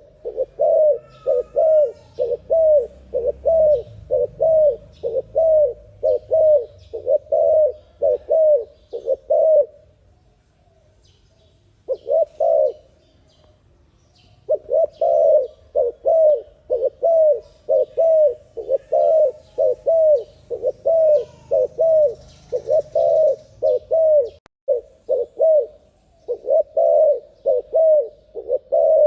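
Spotted dove (terkukur) cooing in a fast series of short repeated notes, about two a second, with a pause of a few seconds about a third of the way through.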